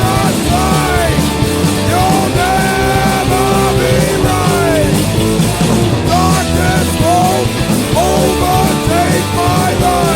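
Skinhead rock 'n' roll band recording playing loud and steady: distorted guitars, bass and drums, with a melody line sliding up and down in pitch over them.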